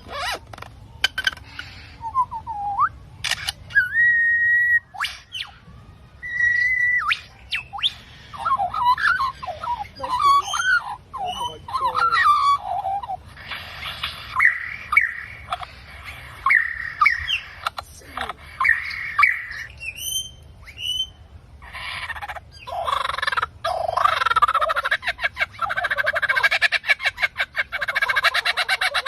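Several birds calling over and over, with clear whistled notes early and long stretches of rapid chattering calls later.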